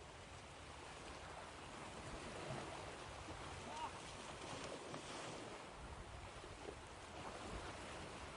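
Ocean waves washing in: a faint, steady hiss of surf that swells a little around the middle.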